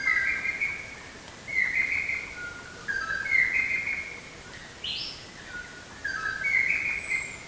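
Greater racket-tailed drongo singing: a run of short whistled phrases, each stepping up in pitch, about every second and a half, with a sharper higher note about five seconds in.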